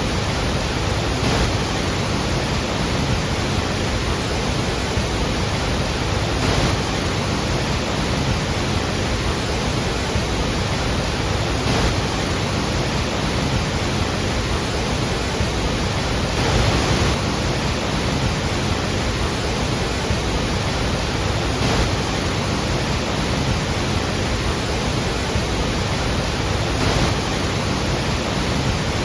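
Iguazú Falls: a steady, loud rush of falling water, with slight swells about every five seconds.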